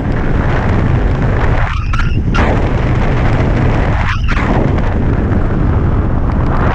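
Wind rushing over the microphone of a hang glider in flight: a loud, steady rumble that surges in a couple of gusts.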